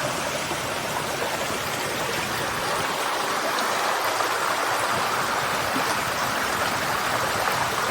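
A small shallow rainforest brook babbling steadily over stones.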